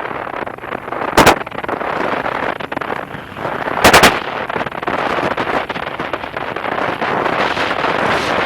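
Steady wind noise on the microphone, broken by two loud sharp thumps, one about a second in and a longer one about four seconds in.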